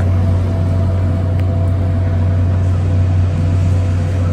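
A steady, loud, low machine hum, like a running motor or engine, with two faint steady higher tones over it.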